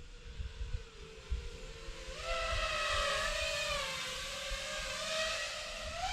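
Nazgul Evoque F6D FPV quadcopter's motors and propellers whining. The pitch sags, then about two seconds in the whine grows louder and higher-pitched and stays up, wavering with throttle.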